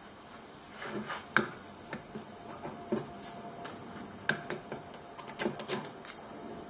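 Irregular light metallic clinks and taps, well over a dozen in about five seconds, as small metal lathe parts and tools are handled and set down.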